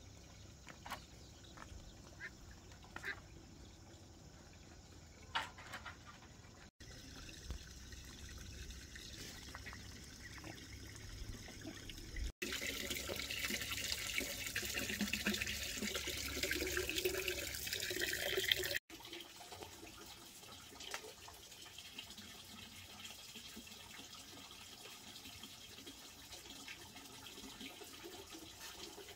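Water running and splashing, loudest in a section of about six seconds in the middle, with scattered light clicks and knocks in the quieter stretches either side.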